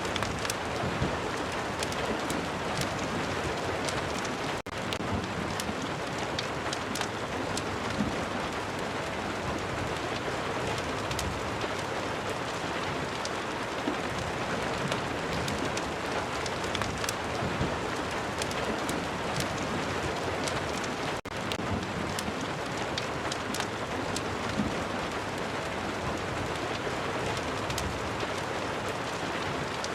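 Steady rain ambience with a fireplace crackling over it in many small sharp ticks. The sound dips for an instant twice, about five seconds in and about twenty-one seconds in.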